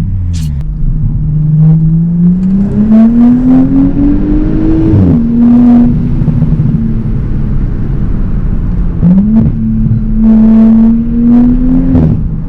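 Straight-piped Audi B9 S5's exhaust under acceleration, loud. The engine note climbs for about four seconds, drops sharply at a gear change, then holds steady at cruise. It dips and picks up again about nine seconds in, and falls off near the end.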